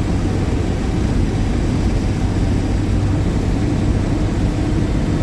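1949 Chevrolet truck's inline-six engine running steadily under way, with road and wind noise inside the cab.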